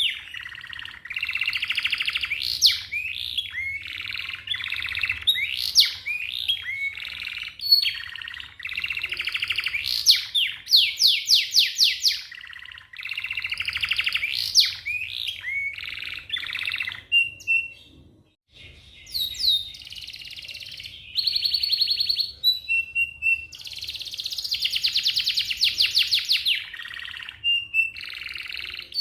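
Young canary singing a fast rolling song: rapid trills and quick sweeping whistled notes, broken by a short pause about two-thirds of the way through.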